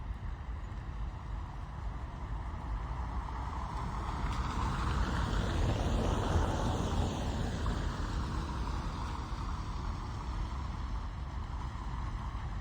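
Rain heard from inside a car: a steady hiss over a deep rumble, swelling louder for a few seconds around the middle and then easing back.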